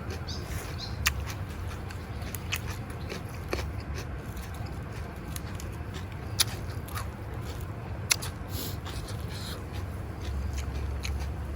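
A person chewing and eating close to the microphone, with scattered short, crisp crunches and clicks over a steady low hum.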